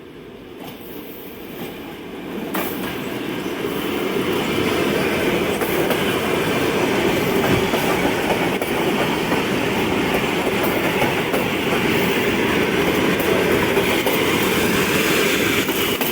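ED4M electric multiple unit train approaching and running past. Its noise builds over the first four seconds, then holds loud and steady.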